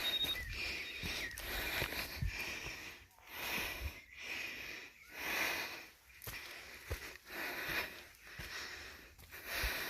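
A person breathing hard and panting while walking, with noisy breaths coming and going about once a second. A few low thumps are scattered through it.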